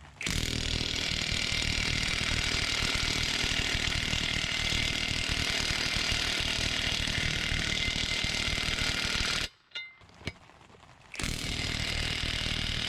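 Impact wrench hammering on an old lug nut, pulling a new wheel stud into the axle shaft flange. It runs steadily for about nine seconds, stops for about a second and a half, then starts again near the end.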